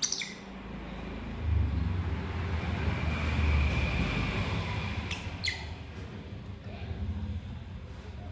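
Lovebirds giving short, sharp chirps, one at the start and two about five seconds in, each dropping quickly in pitch. Under them a low rumble swells about a second and a half in and fades away.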